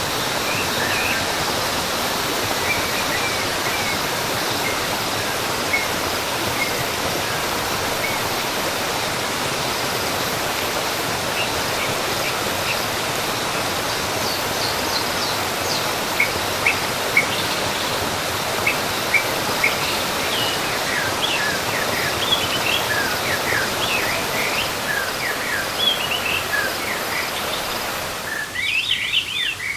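Steady rushing of a waterfall with birds chirping over it, the chirps coming more often in the second half. Near the end the water noise fades out, leaving the birdsong.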